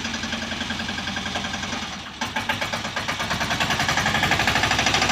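Small engine of a 10 HP three-wheeled mini tractor running with a rapid, even chugging beat. It dips briefly about two seconds in, then builds back up and grows louder.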